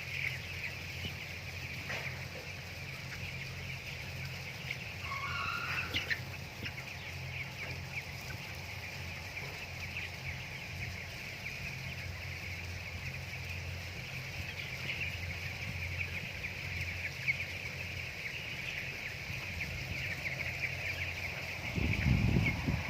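A flock of broiler chickens calling continuously, a dense chatter of small peeps and clucks, with one louder rising call about five seconds in. A steady low hum runs underneath, and a low rumbling noise comes in near the end.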